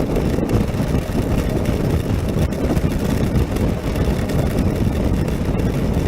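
Steady rush of wind buffeting the microphone on a Honda NC700X motorcycle at highway speed, with the bike's parallel-twin engine and tyres on the rain-soaked road under it.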